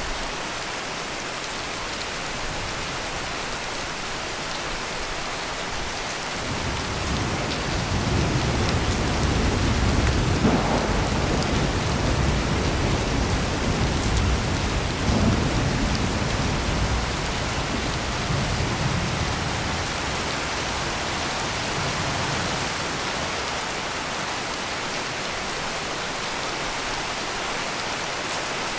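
Heavy rain pouring steadily, with a long roll of thunder that builds about six seconds in, cracks sharply a couple of times, and rumbles away over the next fifteen seconds.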